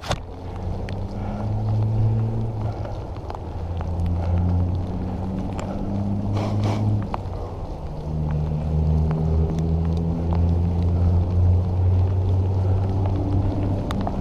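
Wind rushing over the microphone while riding a bicycle, over a low road hum that steps up and down in pitch. There is a brief rattle of clicks about halfway through.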